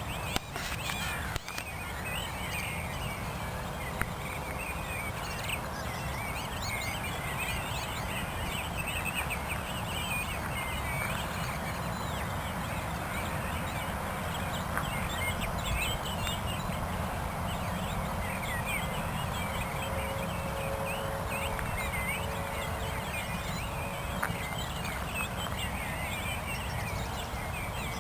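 Dawn chorus: many birds singing at once, a dense run of overlapping chirps and warbles, over a steady low background rumble.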